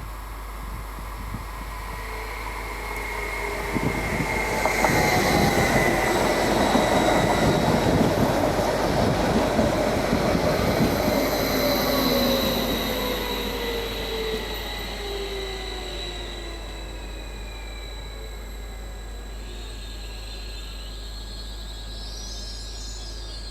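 A Stadler FLIRT electric multiple unit passing over a level crossing. Its noise builds over a few seconds, stays loud for about eight seconds and then fades, and whining tones drop in pitch as it goes by.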